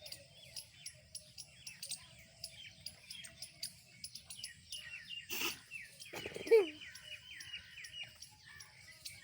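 Many rapid high-pitched animal chirps and squeaks, with a short noisy burst about five and a half seconds in and a louder brief sliding whine-like call about a second later.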